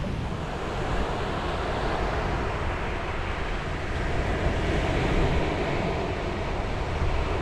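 Sea waves breaking and washing on a beach, swelling about a second in and again later, over a steady low rumble.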